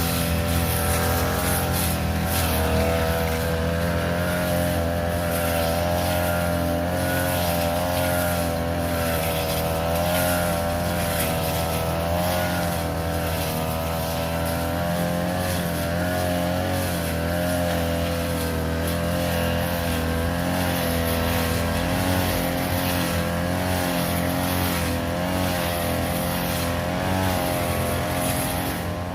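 The small petrol engine of a grass-cutting machine running steadily at work speed while cutting grass, its pitch wavering slightly up and down with the load.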